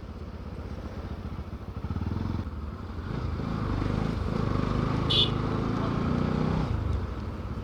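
Motorcycle engine running under way, getting louder from about three seconds in and easing back down near the end. A brief high-pitched tone sounds about five seconds in.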